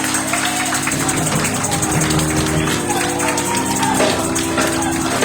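Live gospel song sung by a children's choir, with sustained keyboard chords, a steady tambourine beat and singing voices over the top.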